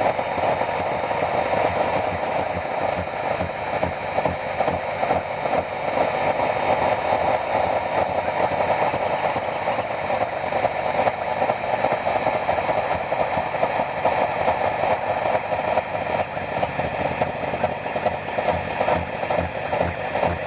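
Harsh noise / power electronics: a dense, steady wall of distorted electronic noise, strongest in the midrange, with a fast flutter running through it. Faint low pulses come in near the end.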